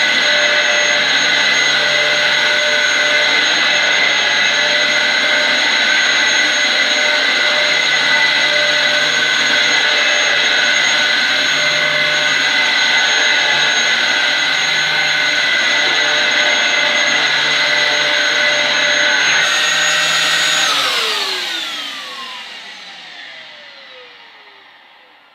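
Dyson DC07 upright vacuum cleaner running on carpet with a steady high whine, then switched off about 20 seconds in, its motor whine falling in pitch and fading away over several seconds as it spins down.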